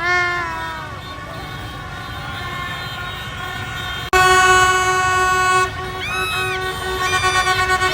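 Horns blowing in a street celebration: a short toot that sags down in pitch, then a loud, long horn blast about four seconds in lasting about a second and a half, and a brief bent toot after it. Steady crowd and traffic noise runs underneath.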